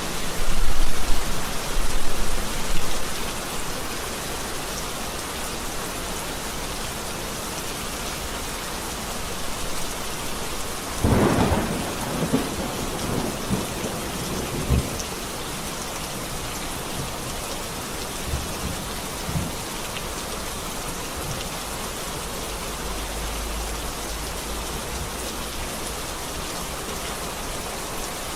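Steady heavy rain with thunder: low rumbles in the first few seconds, a sharper thunderclap about eleven seconds in that rolls on for several seconds, and fainter rumbles later.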